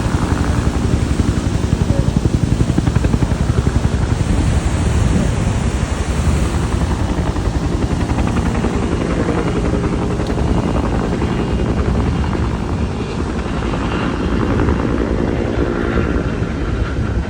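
Helicopter flying close by: a loud, continuous rotor and engine sound with a fast, even beat of blade thumps, strongest in the first few seconds and smoothing out after.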